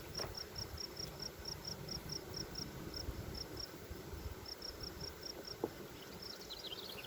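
An insect chirps steadily, about three short high chirps a second, over a low hum from the honey bees around the open hive. A single short tick comes about two-thirds of the way in.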